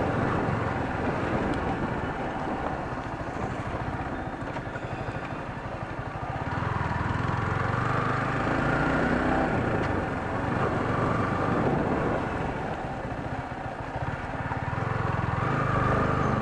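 Yamaha R15 V3 motorcycle's 155 cc single-cylinder engine running as the bike rides along a street, heard from an on-board camera with wind and road noise. The engine grows louder about six seconds in and again near the end.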